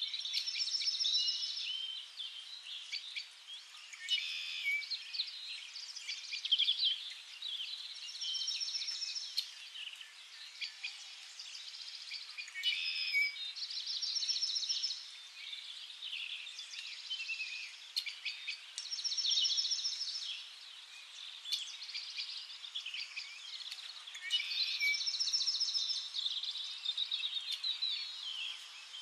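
Birds singing and chirping. One bird repeats a short, rapid trilled phrase every five or six seconds among scattered high chirps from others.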